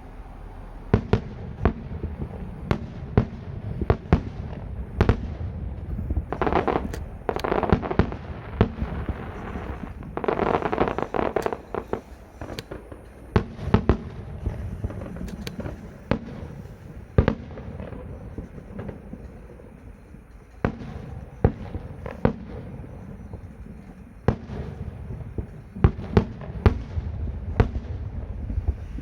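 Fireworks going off: a long run of sharp bangs, about one a second, with two stretches of dense crackle a quarter and a third of the way in.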